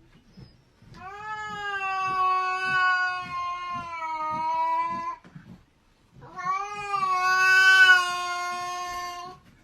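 A cat giving two long, drawn-out yowls, the first about four seconds and the second about three, with a short pause between them.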